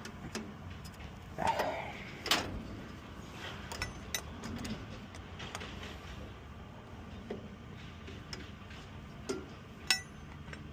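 Scattered clicks, taps and knocks of hands and tools working on a truck's air-line glad hands, with a sharper knock about two seconds in and a ringing metal clink near the end, over a steady low hum.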